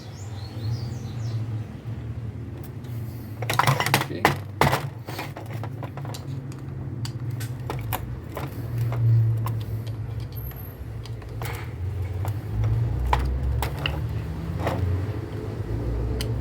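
Hand tools clicking and knocking on a starter motor's metal housing as its cover screws are given a final tightening: a quick run of sharp clacks about four seconds in, then scattered single ticks, over a steady low hum.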